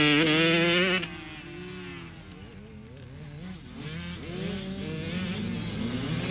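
Motocross dirt bike engines revving. A close, loud bike drops away abruptly about a second in, leaving several quieter bikes whose revs rise and fall as they gradually get louder.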